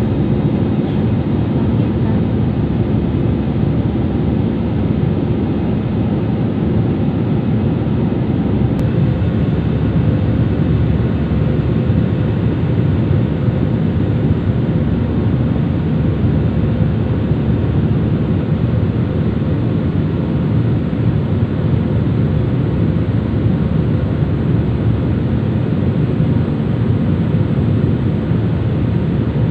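Steady drone of engines and rushing air inside a passenger airliner's cabin, unchanging throughout.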